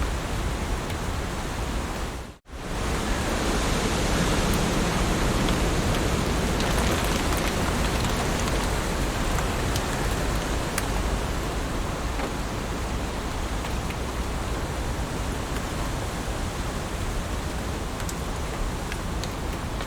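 Heavy rain falling steadily, with scattered individual drop ticks over an even hiss. It cuts out to near silence for a moment about two and a half seconds in, then resumes.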